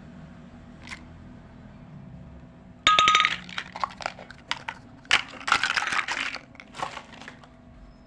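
Small toy kitchen pieces clinking and rattling as they are handled. A sharp clink with a brief ring about three seconds in, then a run of quick clicks and rattles that stops about a second before the end.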